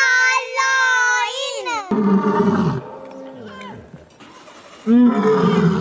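A male lion roaring in two bouts: a shorter call about two seconds in, then a louder, longer one about five seconds in.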